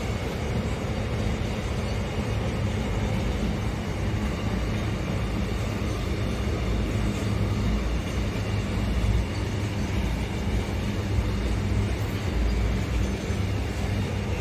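Container freight train rolling past, its loaded flat wagons' wheels running on the rails in a steady, continuous rumble.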